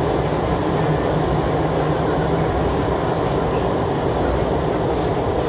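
Steady interior running noise of an MTR IKK-Train electric multiple unit in motion, heard inside the car beside the door: an even rush of wheels on rail with a low hum that fades about halfway through.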